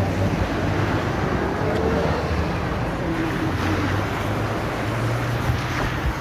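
Steady running noise of a vehicle: a low engine hum that shifts slightly in pitch, under a constant rush of road and wind noise.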